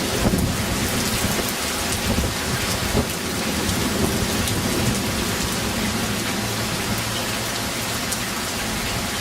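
Steady heavy rain, with a low rumble of thunder underneath.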